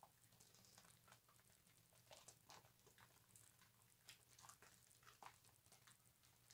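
Bar soap being lathered: faint, irregular wet squishing and crackling of soap and suds, with a soft steady hum underneath.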